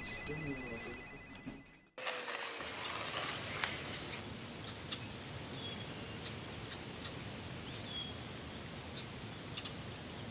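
A faint steady high tone that cuts off about two seconds in, then outdoor ambience: a steady hiss with scattered short bird chirps.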